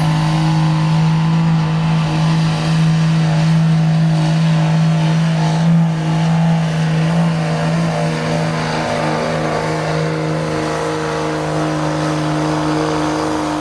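Diesel pickup truck engine held at high, steady revs under full load while pulling the weight sled, with a high steady whistle, typical of a turbocharger, above the engine note.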